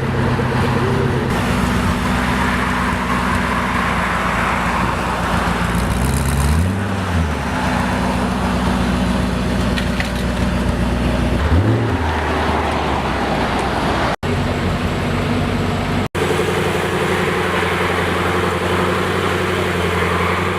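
Koenigsegg engine idling, with two quick throttle blips in the middle, each rising and falling back to idle. The sound cuts out for an instant twice near the end.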